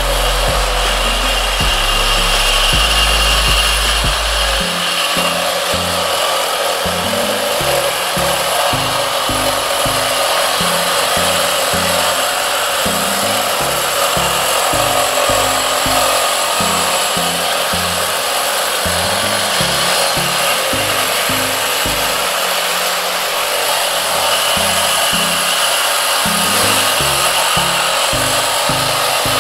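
Two cordless brushless reciprocating saws, a Metabo SSE 18 LTX BL and a Milwaukee M18 FUEL 2720-20, running together as their blades cut through thick-walled steel fire sprinkler pipe. The cutting is a steady rasping noise, with background music underneath.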